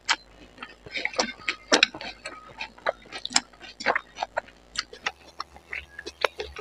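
Close-miked mouth sounds of eating spicy noodles: chewing and lip-smacking, with many irregular wet clicks.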